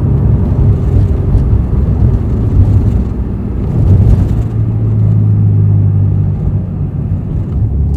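Honda NSX's V6 engine running under way through a custom titanium exhaust, with a steady low drone that drops in pitch about halfway through as the revs fall.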